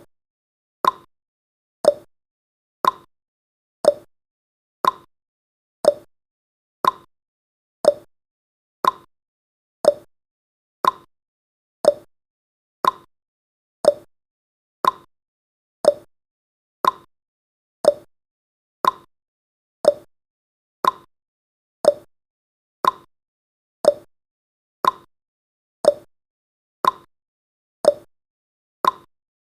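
Countdown timer's tick sound effect: one short, evenly spaced tick every second.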